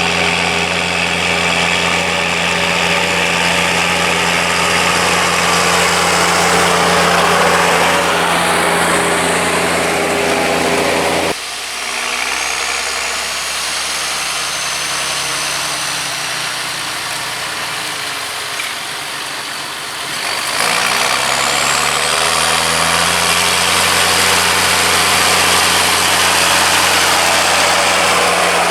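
John Deere 6520's six-cylinder diesel engine working under load while ploughing with a Kuhn four-furrow plough. About a third of the way in the revs drop suddenly and run lower for around nine seconds, then climb back to working speed with a faint high whistle rising alongside, and the engine runs steadily again to the end.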